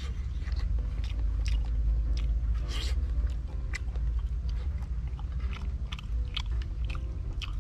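Close-up chewing and crunching of food, many short sharp clicks over a steady low rumble.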